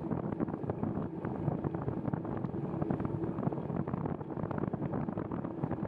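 Steady noise of a bicycle ride on wet streets in the rain: wind on the microphone and tyres on wet pavement, with many small crackles throughout.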